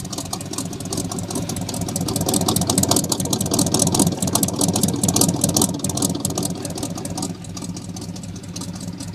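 Chevy Suburban's 305 V8, bored .030 over, running through glass-pack mufflers with no catalytic converters. It gets louder from about two seconds in and settles back down around seven seconds in.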